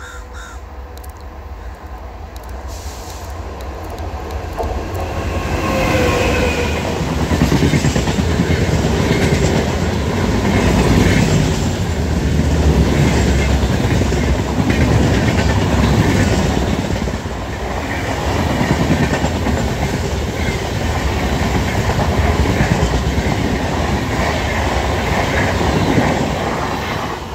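Passenger express hauled by a WAP-5 electric locomotive running past at close range, its wheels clattering over the rails. The noise builds over the first few seconds, stays loud, and eases near the end.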